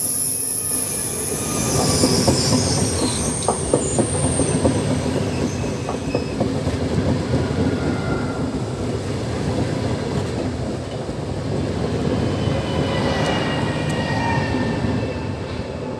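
Electric multiple-unit passenger train running past, its wheels clattering over rail joints with thin wheel squeals at the start and again near the end.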